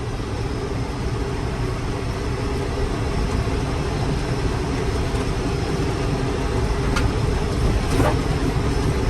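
Tractor engine running steadily under load, pulling a Vermeer round baler with the PTO engaged. Two short clicks come near the end.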